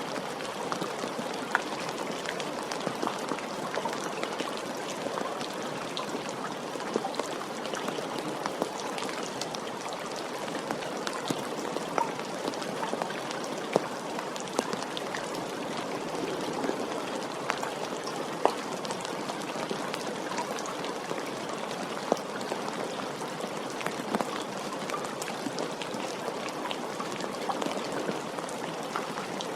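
Steady rain falling, with a constant patter and many individual drops ticking sharply through it.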